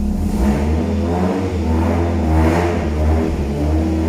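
Toyota MR2 engine running, with its note stepping up and down as it is lightly revved over a steady low hum. The exhaust sounds very quiet now that its leaking cut has been sealed with exhaust repair paste and wrap, so it is no longer blowing.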